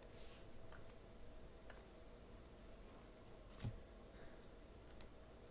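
Tarot cards being handled: faint scattered clicks and taps, with one soft low thump a little past halfway through.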